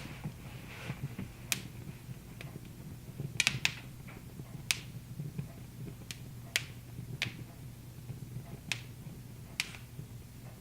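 Wood fire crackling in a fireplace: sharp, irregular pops and snaps, about one a second, over a low steady hum.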